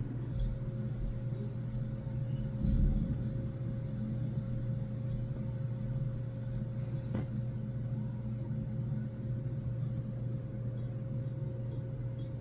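A steady low hum throughout, with a soft thump about three seconds in and a sharp click around the middle, plus a few faint ticks near the end.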